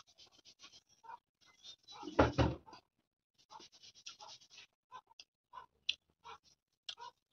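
Eating sounds close to the microphone: irregular chewing and mouth smacks, with fingers pressing rice and pork on a banana leaf. There is a louder thump about two seconds in.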